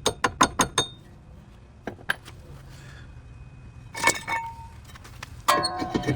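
Metal clinking and clattering of tools and parts being handled: a quick run of about six sharp, ringing clinks in the first second, a single clink about two seconds in, another cluster around four seconds, and a busier clatter near the end.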